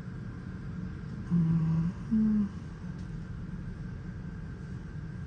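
A man humming two short low notes, the second a little higher, over a steady low background rumble.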